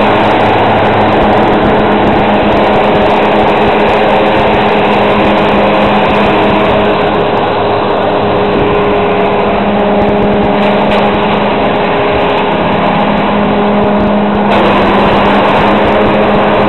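Fendt 924 Vario tractor's engine running steadily under load, driving a Kemper Champion 3000 forage harvester as it chops silage; the sound grows a little brighter about fourteen seconds in.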